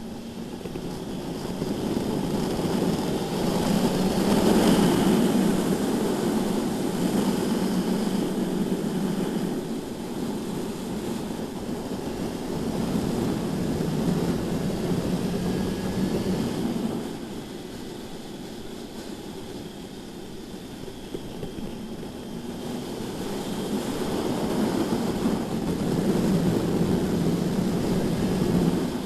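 BMW S1000RR inline-four sportbike engine running at speed on a race track, swelling and easing with the throttle. It is loudest a few seconds in, drops off about two-thirds of the way through, then builds again near the end.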